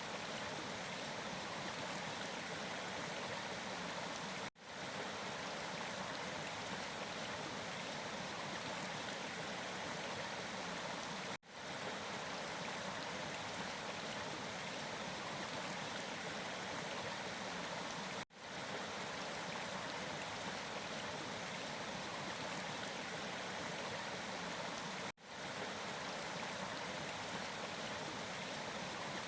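Steady rushing of a flowing stream. The sound drops out briefly four times, about seven seconds apart, each time coming quickly back up.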